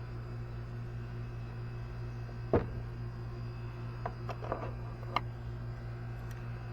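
A single sharp knock about two and a half seconds in, then a few lighter clicks and taps near the end, from parts and tools being handled, over a steady low hum.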